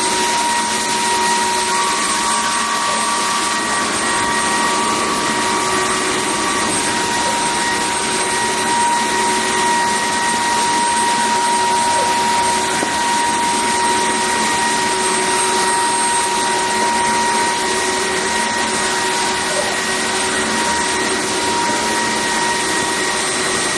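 Dreame H15 Pro Heat wet-dry floor vacuum running steadily in auto mode: an even whirring hiss with a thin high whine.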